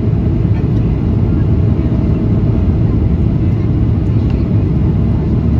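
Steady low rumble inside the passenger cabin of a Boeing 737-800 in flight: the noise of its CFM56-7B engines and the airflow over the fuselage, with no change in pitch or level.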